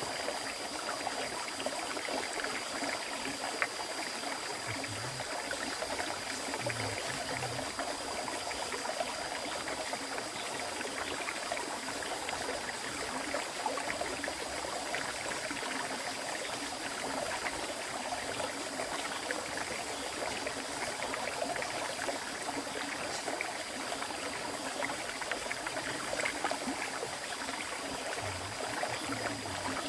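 River water flowing steadily over stones, a continuous rushing splash with no break, and a faint steady high whistle running through it.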